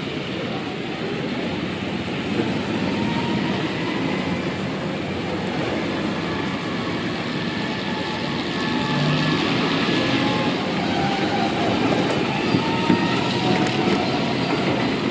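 Turret trucks, small motorised market carts, driving to and fro in a steady mechanical din with faint knocks and rattles, growing a little louder about halfway through.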